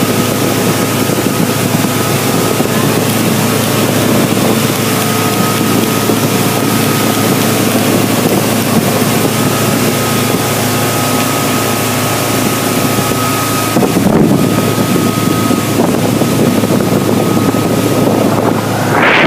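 Motorboat engine running steadily at speed, with loud wind on the microphone and rushing water.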